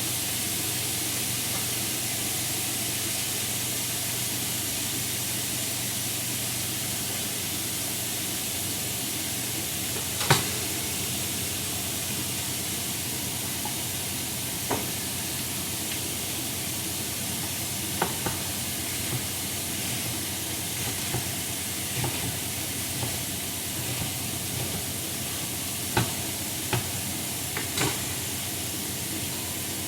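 Food sizzling steadily in hot oil in a frying pan, with a few short knocks of a utensil against the pan, the loudest about ten seconds in and several more in the second half.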